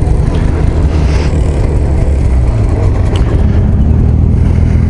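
Arctic Cat ZR 8000's 800 C-TEC two-stroke snowmobile engine running steadily, its pitch stepping up slightly near the end.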